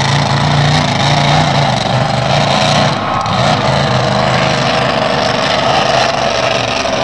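Monster truck engine running loud and steady, its note shifting about three seconds in.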